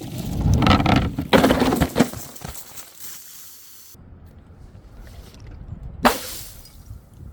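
A loud crash with dense clattering for about two and a half seconds, then quieter rattling and one sharp impact about six seconds in: objects being dropped and smashed.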